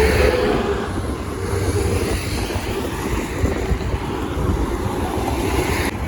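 Wind buffeting the microphone over a low rumble of motorway traffic, rising and falling in gusts.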